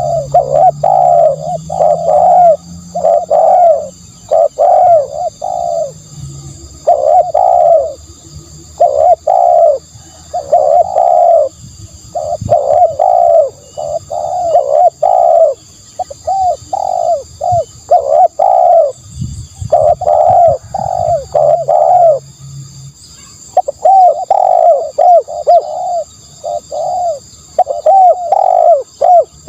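Spotted dove cooing over and over, loud, its notes coming in quick groups separated by short pauses.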